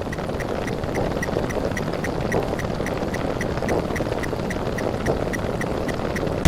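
A buzzer sound effect repeated so fast that the plays blur into one steady buzzing drone, with a light tick about four times a second and a sudden thump right at the end.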